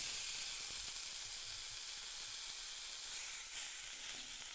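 Steady sizzling hiss of food frying in a pan.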